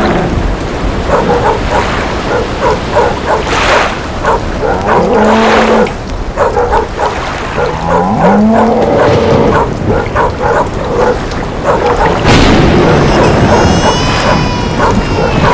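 A dog barking and whimpering repeatedly in short calls over steady rain.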